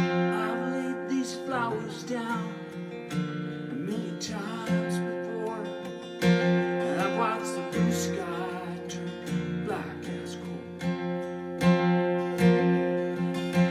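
Acoustic guitar strummed in steady chords, an instrumental passage of a folk-pop song.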